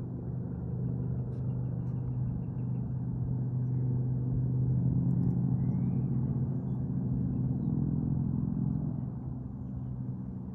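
Low engine drone with a steady pitch, growing louder toward the middle and fading again near the end, as of something motorised passing by.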